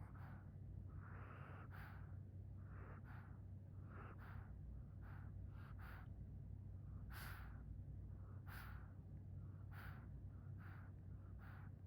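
Pet dog snoring softly in its sleep: short breathy snores that come irregularly, about once a second. A steady low hum runs underneath.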